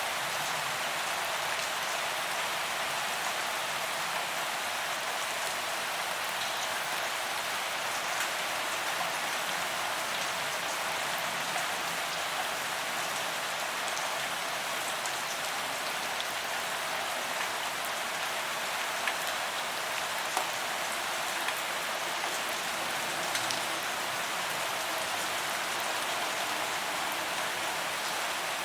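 Steady rain falling on a paved sidewalk, an even hiss with scattered drop ticks.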